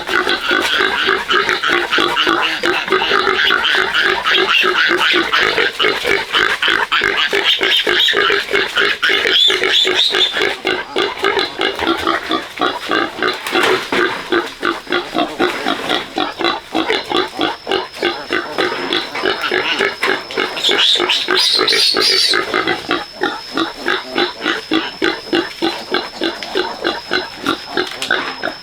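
A sow and her piglets grunting and squealing without a break, in quick rhythmic pulses. A thin steady high tone comes in about two-thirds of the way through.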